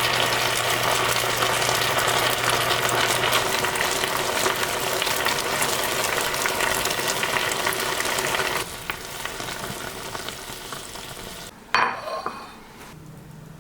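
Food sizzling in a frying pan, a dense steady hiss that gets noticeably quieter about two-thirds of the way through. Near the end comes a single sharp knock with a short ring, such as a utensil or pan striking.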